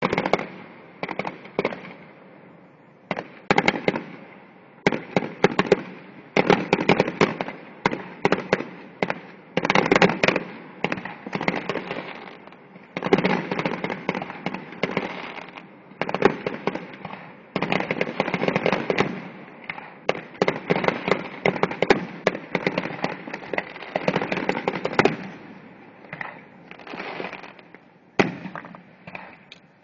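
Fireworks finale: a rapid, almost continuous barrage of bangs and crackling bursts, thinning out a little near the end.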